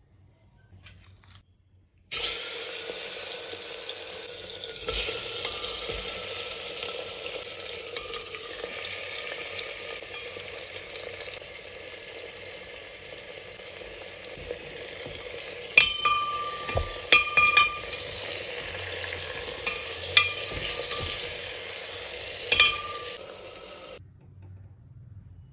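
Food sizzling loudly in hot oil in a cooking pot, starting suddenly about two seconds in and slowly dying down. A spoon clinks and rings against the pot several times in the second half, and the sizzle stops abruptly near the end.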